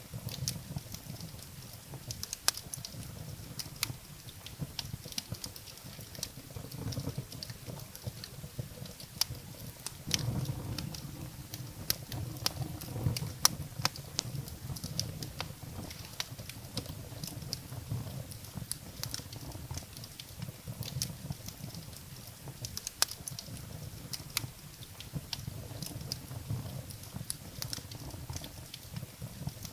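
Firewood burning in a fireplace: irregular sharp crackles and pops over a low rumble of flames, the flames swelling for a few seconds about a third of the way in.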